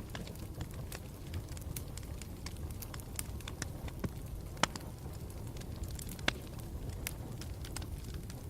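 Campfire burning: a steady low rush of flames with irregular sharp crackles and pops, two louder pops a little past the middle.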